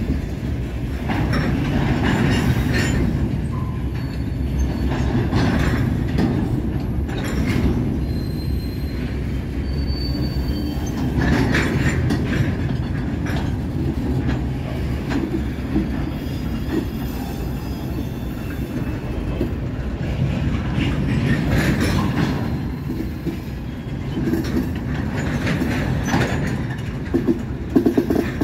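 Freight cars of a passing train, covered hoppers and tank cars, rolling over the rails with a steady rumble, wheel flanges squealing in several short spells. Near the end comes a run of sharp clacks from the wheels.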